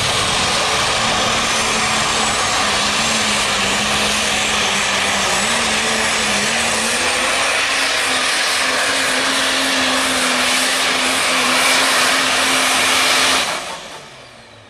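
Twin-turbocharged super stock diesel pulling truck running flat out under load on a pull, a steady engine tone with a high turbo whistle above it. Near the end the throttle is cut and the sound drops off sharply and dies away.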